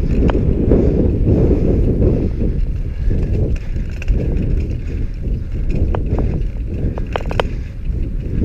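Wind buffeting the microphone and road rumble from a moving bicycle, an uneven low rush, with a few light clicks or rattles at about six and seven seconds in.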